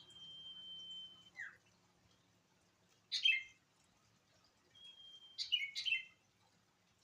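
Sirtu, a small iora kept as a songbird, singing: a long steady whistle, a short falling note, then sharp stepped chirps. Near the end a second whistle breaks into a quick run of chirps.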